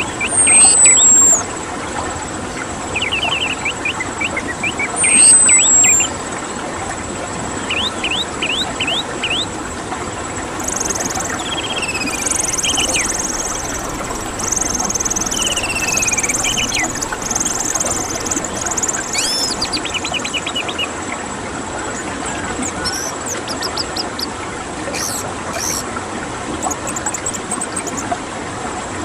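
Orange-headed thrush singing in varied, scattered phrases over a steady background hiss. The song mixes sharp falling whistles, quick runs of chirps, and a denser warbling stretch about halfway through.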